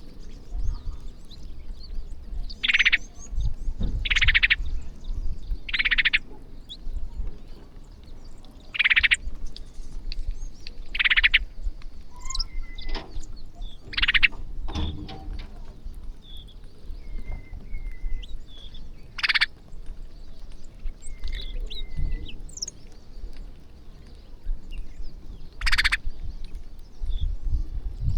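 A flock of feeding birds calling: about eight loud, harsh calls, each about half a second long, rise over scattered short chirps.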